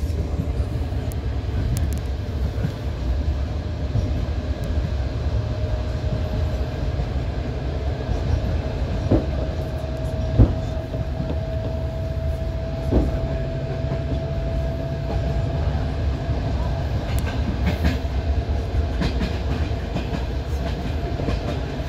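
Passenger train carriage running along the track, heard from inside: a steady low rumble with a faint whine that rises slightly. Three sharp knocks come in the middle, the loudest about ten seconds in.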